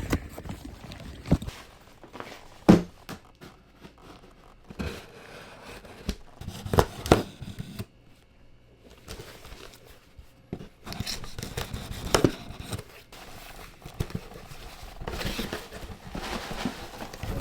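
Packaging being torn open and crinkled while unboxing, with rustling, scraping and a few sharp knocks and clicks.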